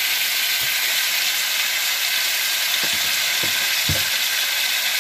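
Chopped tomatoes sizzling in hot oil in a clay pot, a steady frying hiss, as a wooden spatula stirs them, giving a few soft thuds near the end.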